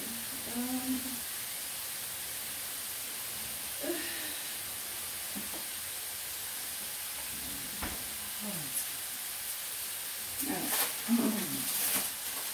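Home-cut potato chips frying in oil in a frying pan: a steady sizzle.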